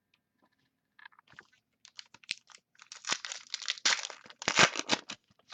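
A sealed foil pack of football trading cards being torn open and its wrapper crinkled, with irregular crackling and rustling that is loudest and densest in the second half.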